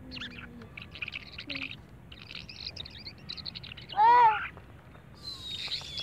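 Birds calling: quick bursts of high chirps, with one loud, short call about four seconds in, the loudest sound, and a long high whistled note starting near the end.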